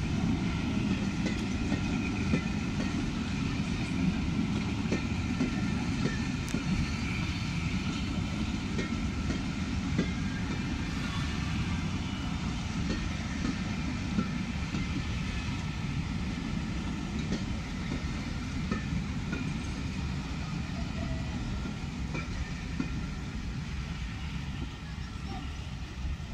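A train of passenger coaches rolling slowly past on the rails: a steady rumble with scattered clicks from the wheels, easing a little as the last coach goes by.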